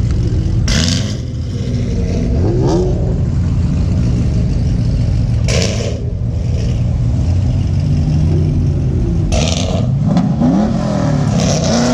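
Car engines revving at a meet, the pitch sweeping up and down repeatedly over a steady engine drone. Three short, sharp noisy bursts cut in about a second in, midway, and near the end.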